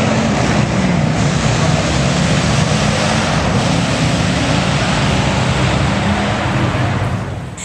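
Car engine running loud and steady close by, with a heavy exhaust rumble; it drops away about seven seconds in.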